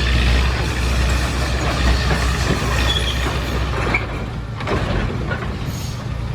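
Heavy diesel engine of earthmoving machinery running, a low steady rumble that weakens about halfway through.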